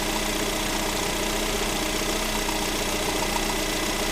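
Freshly rebuilt Lada Granta 126-series 16-valve engine idling steadily with a fast, even ticking running through it. This is the new knock-and-grind noise that appeared after the overhaul, which the owner suspects is the camshaft bedding in.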